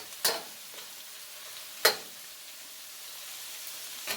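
Garlic and chili paste sizzling steadily in olive oil over medium heat, with two sharp clacks of a stirring utensil against the pan, the louder one about two seconds in.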